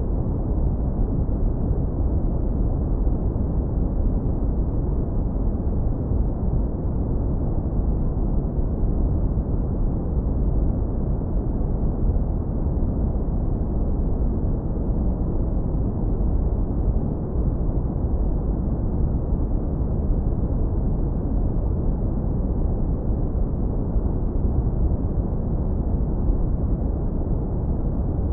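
Steady, deep brown noise, low-passed so that only a warm low rumble remains with nothing heard above the low-mids; it does not change.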